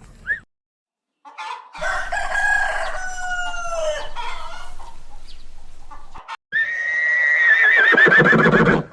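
Rooster crowing twice: a long falling crow about two seconds in, then a louder crow with a wavering end about six and a half seconds in.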